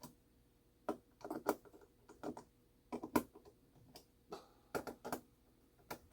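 Irregular sharp clicks and taps of small tools and metal parts on a clock movement as its nuts are tightened down, about a dozen in all.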